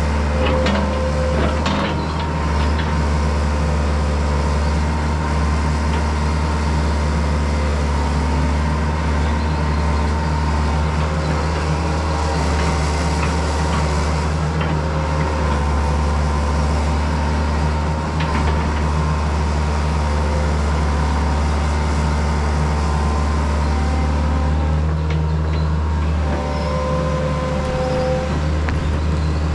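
Diesel engine of heavy earthmoving equipment running steadily under load, with a thin whine above it and a few scattered clanks.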